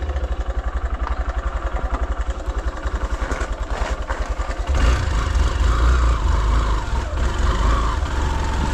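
Hero Xpulse 200's single-cylinder engine idling with an even, rapid pulse. About halfway through it gets louder and fuller as the throttle opens and the bike rides off.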